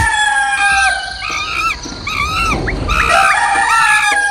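Dogs howling: one long, slightly falling howl that breaks off and resumes about three seconds in, with short arching yelps repeating over it.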